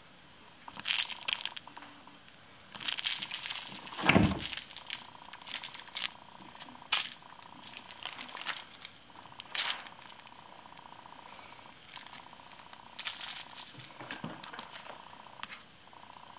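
Bengal kitten playing: irregular bursts of scratching and rustling, with a single thump about four seconds in.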